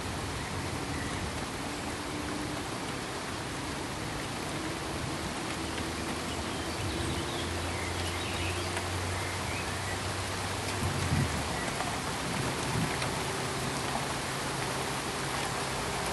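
Steady, even hiss of pink noise, much like heavy rain, with a few faint chirps and a faint low hum underneath.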